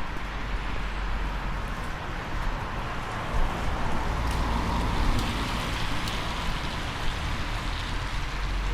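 Steady rain falling, an even hiss over a low rumble, swelling a little around the middle.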